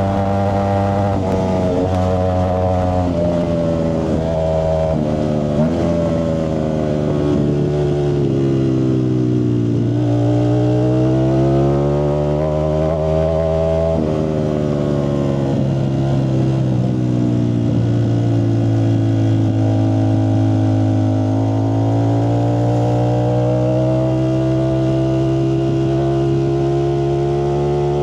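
Ducati Streetfighter V4S's 1103 cc V4 engine running through a Zard exhaust, its revs sweeping slowly up and down: a dip about ten seconds in, a climb back, another dip, then a slow rise near the end.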